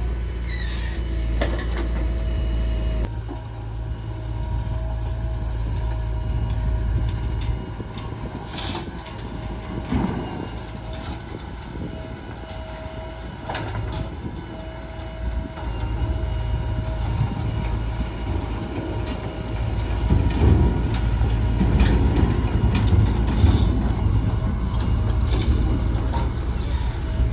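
Heavy diesel machinery running steadily, from a backhoe loader digging soil and a tipper truck being loaded, with a few sharp knocks over the low engine rumble.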